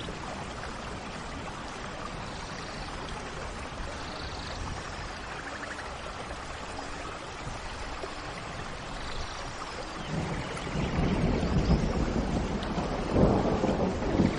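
Steady rain with a few faint bird calls over it. About two-thirds of the way in a low rumble of thunder builds, loudest near the end.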